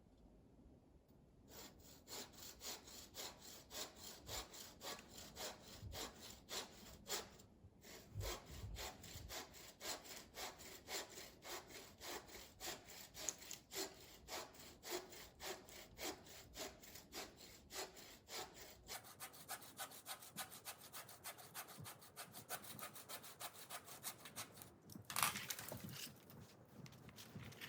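Hand saw cutting through wood in steady, rhythmic back-and-forth strokes, a few a second, with one louder knock near the end.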